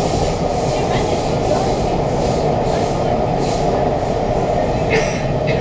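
Siemens C651 metro train running at speed through a tunnel, heard from inside the carriage: a steady, loud rumble of wheels on rail and running gear, with a couple of sharp clicks near the end.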